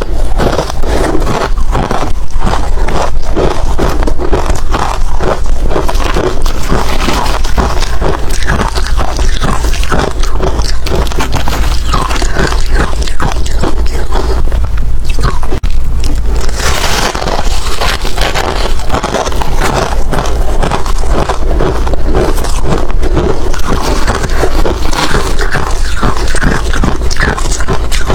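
Close-miked chewing of hard ice: a continuous run of loud crunches and cracks as the cubes are bitten and ground between the teeth.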